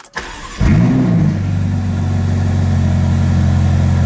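Ferrari California T's twin-turbo 3.9-litre V8 being started: a click, a brief crank, then the engine fires about half a second in with a rev flare that rises and falls, and settles into a steady idle.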